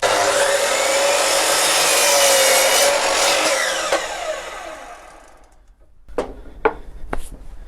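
Electric mitre saw starting up and crosscutting a 4-by-1 wooden board, its motor whining steadily through the cut, then winding down with falling pitch after about four seconds. A few sharp knocks follow near the end.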